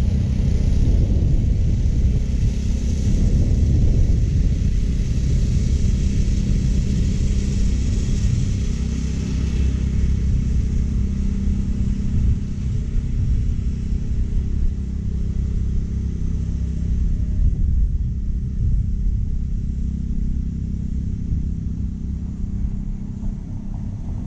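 California Trimmer reel mower running over short Bermuda grass: a steady low rumble with a high hissing sound on top that fades after about ten seconds.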